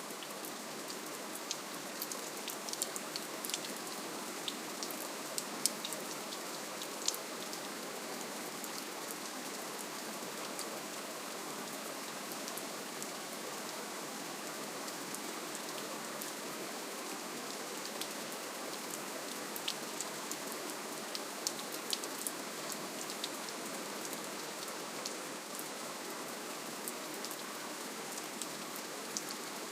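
Steady rainfall: an even hiss of rain with many small, sharp drop ticks on top, a little denser in a few stretches.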